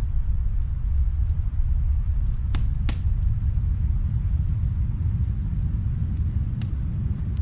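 Wood fire crackling in a fireplace, with scattered small ticks and a few sharper pops: two close together in the middle and one near the end. A steady low rumble runs underneath.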